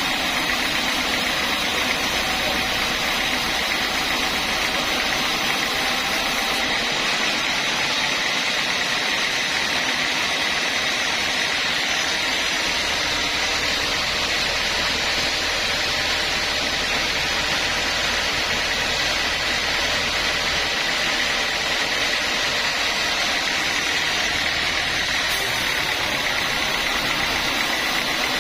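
Sawmill saw running steadily: a constant machine drone with a steady high whine, unbroken throughout.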